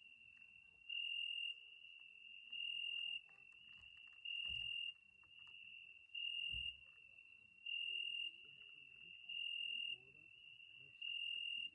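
Cricket chirping: one high, steady-pitched note repeated in regular pulses of about half a second, roughly every second and a half to two seconds, with a fainter continuous trill of the same pitch between them.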